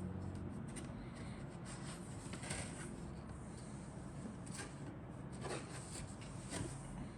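Soft rustling and rubbing from the plastic-model kit's contents being handled, with a few light taps.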